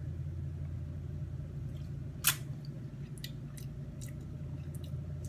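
Steady low hum with one sharp click about two seconds in and a few faint ticks after it, small tasting and utensil noises as the freshly whisked dressing is tried.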